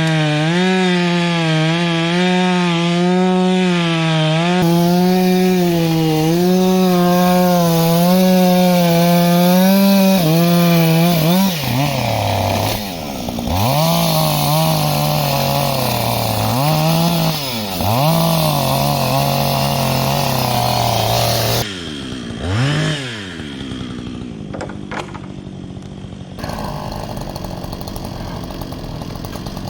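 Two-stroke chainsaw running at high revs while cutting a downed log, held steady for about ten seconds, then the revs drop and climb again several times. About two-thirds of the way through it falls to a lower, quieter idle with a few knocks.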